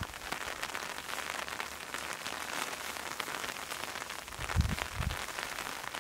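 Steady rain falling, a dense even patter of drops. A couple of low thuds come about four and a half seconds in.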